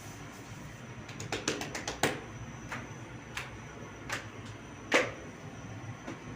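Sharp clicks and knocks over a steady low rumble: a quick run of about eight about a second in, then single knocks spaced out, the loudest near five seconds in.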